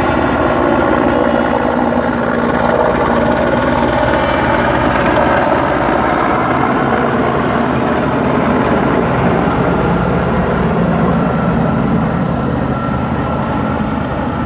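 Erickson S-64 Air Crane heavy-lift helicopter running steadily, its rotor rumble under a high turbine whine from its twin turboshaft engines that sinks slowly in pitch.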